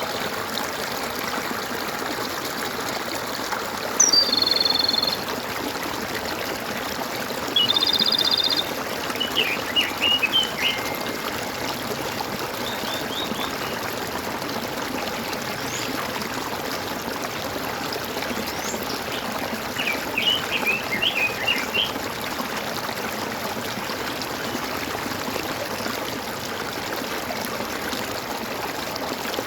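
Steady trickling and gurgling of running water, with birds calling over it: a short trilled call about four seconds in and again about eight seconds in, and bursts of quick chirps around ten and twenty seconds in.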